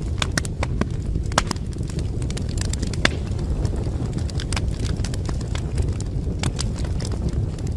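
Wood fire burning in a fireplace: a steady low roar of the flames with irregular sharp crackles and pops from the burning logs.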